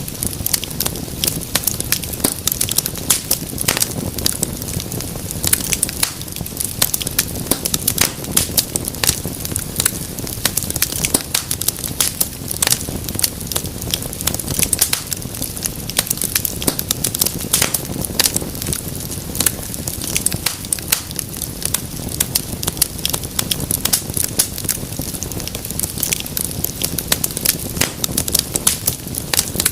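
Wood fire crackling in a fireplace: dense, irregular pops and snaps over a steady low rumble of flame.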